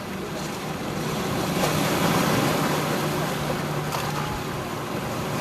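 Sea surf washing on the shore, with wind buffeting the microphone and a low steady hum, strongest mid-way, under the noise of the water.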